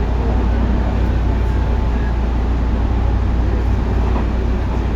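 Tobu 9050 series electric commuter train running at steady speed: a constant low rumble of wheels on rail with a faint steady whine over it.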